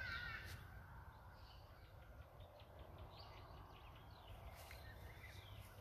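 Near silence: faint outdoor ambience with a few faint bird chirps, including a short wavering call right at the start.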